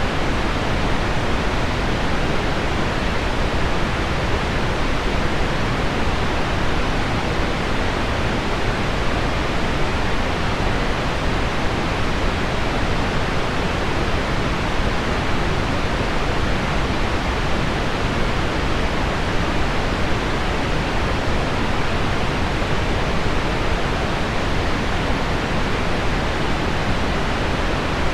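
Steady, even hiss of pink noise blended with heavy rain on window glass, with no single drops or changes standing out.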